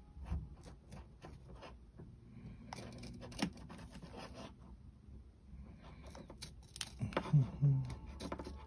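Pocket knife scraping and picking at the hardened epoxy resin on a fishing rod's guide wrap: scattered small scratches and clicks, with a few low bumps about seven seconds in.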